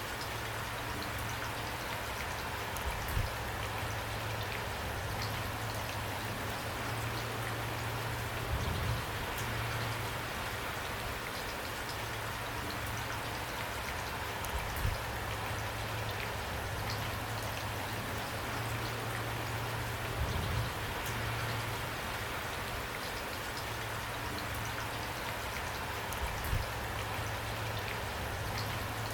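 Steady rain falling, an even hiss, with a heavier drop or knock standing out about every six seconds.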